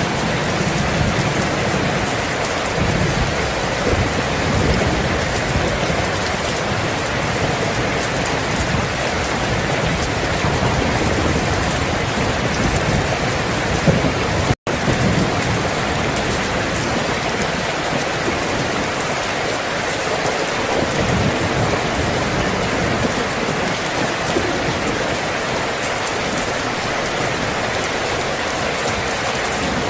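Steady rain falling, with low thunder rumbles swelling now and then. The sound cuts out for a split second about halfway through.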